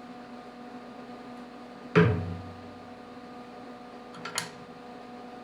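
A sharp metal clank about two seconds in, ringing briefly, then a lighter click a couple of seconds later, from wrench work on a heated, penetrant-soaked seized bolt. A steady hum runs underneath.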